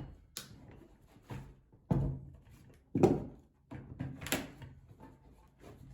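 Irregular knocks and clunks, roughly one a second, the loudest about two, three and four seconds in: lumber and tools being handled and set down between saw cuts.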